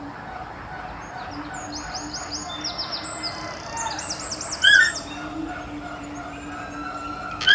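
Birds calling: rapid runs of high chirps, each falling in pitch, over a steady low hum, with a short loud call about four and a half seconds in and another at the end.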